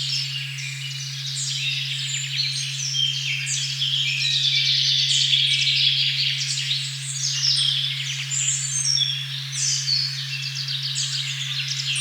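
A steady, unbroken 136.1 Hz sine tone (the "OM" frequency) under a dense chorus of many songbirds chirping and trilling at once in a forest recording.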